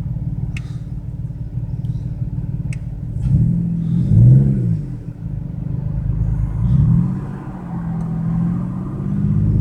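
BMW 335i turbocharged straight-six running with a misfire in its rear cylinders, cylinder 6 worst. It is revved up and back down about three seconds in, and briefly again about seven seconds in.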